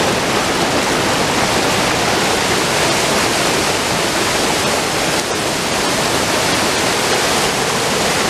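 Düden Waterfall: a large volume of river water pouring over the falls in a loud, steady rush.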